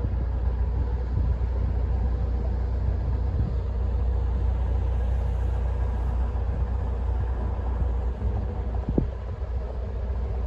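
Narrowboat engine running steadily at cruising speed, a constant low rumble, with a couple of brief knocks near the end.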